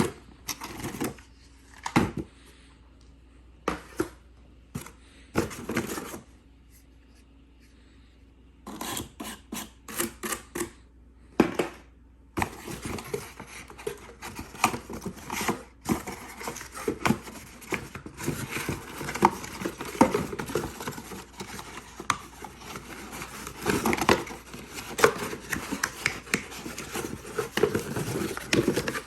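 Unboxing handling noise: scattered clicks and knocks for the first dozen seconds, then from about twelve seconds in a dense run of rustling, crinkling and small clicks as packaging and parts are handled.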